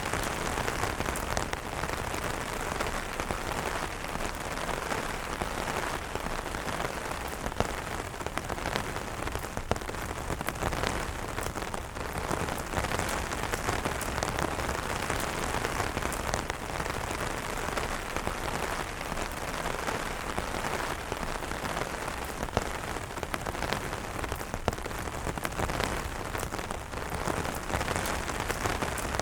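Steady rain falling on an umbrella: a continuous hiss with many small, sharp drop taps scattered through it.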